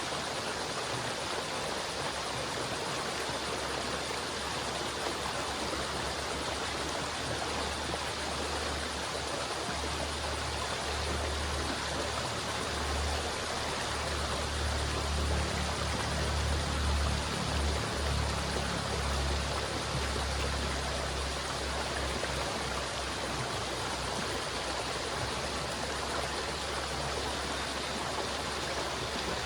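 River water flowing steadily, an even rushing with no breaks. A deeper low rumble swells for several seconds midway, then settles.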